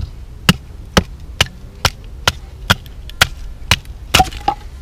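Batoning: a full-tang, thick-bladed knife is driven through a dry piece of wood by a steady series of sharp knocks, about two a second, around eleven in all. The blade splits the wood easily.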